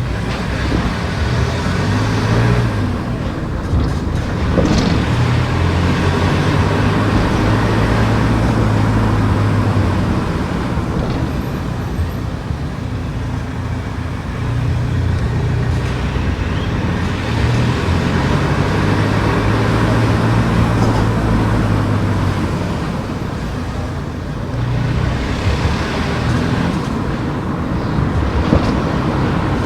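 A car driving on a road: engine hum under steady tyre and road noise. The engine note holds for a few seconds at a time, then shifts as the speed changes.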